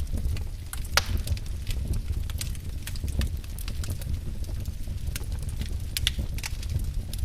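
Wood fire burning in a fireplace: a steady low rumble of flames with irregular sharp crackles and pops, the loudest pop about a second in.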